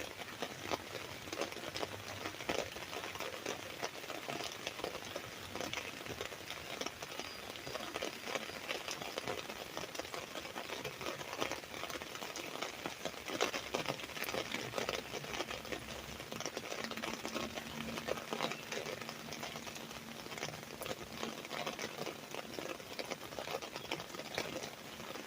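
Rain falling on an umbrella: a dense, uneven stream of many small drop hits that keeps going at a steady level.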